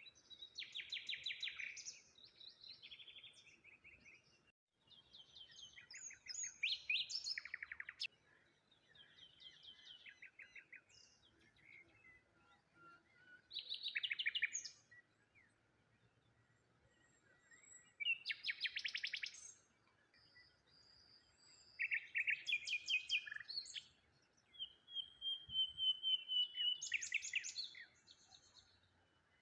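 Songbirds singing: short phrases of fast, trilled notes repeated every few seconds, with a longer level whistle near the end.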